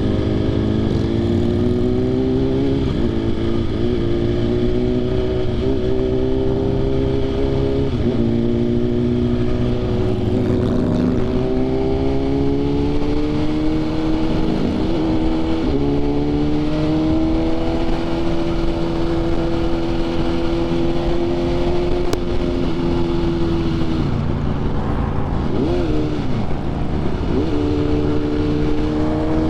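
BMW S 1000 RR sport bike with an aftermarket SC Projects exhaust, ridden through the gears: the engine's pitch climbs and drops sharply at each upshift about six times, then holds steady at cruising speed, with a few brief dips and wobbles in pitch near the end. A steady rush of wind lies underneath.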